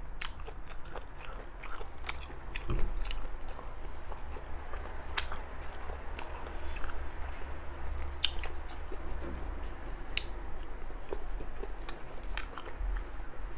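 Close-miked chewing and biting of seafood, with scattered wet clicks and smacks.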